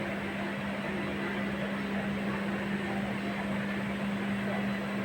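Steady running noise inside a train carriage, an even rushing with a constant low hum.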